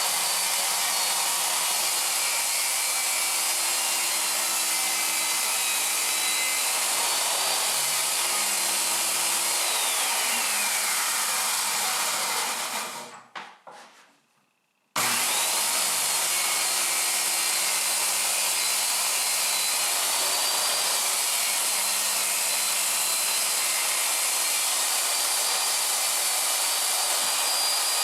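Power saw cutting plywood sheet goods: the motor's whine runs, sags a little under load, winds down with a falling pitch and stops about 12 seconds in, then the saw starts again about 15 seconds in for a second cut.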